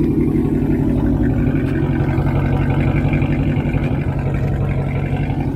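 Chrysler 300's Hemi V8 idling at the exhaust tip, loud but steady and even, without the choppy lope of a cammed engine.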